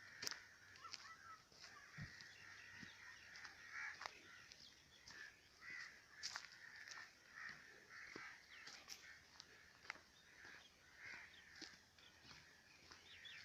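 Faint birdsong from several birds: many short chirps and calls overlapping, with no pause between them.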